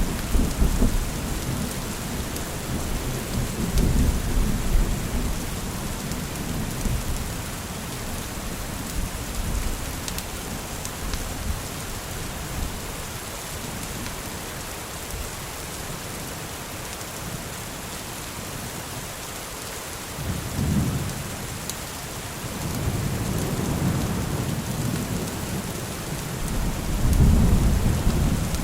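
Steady rain with thunder rumbling deep and low several times, the loudest roll building near the end.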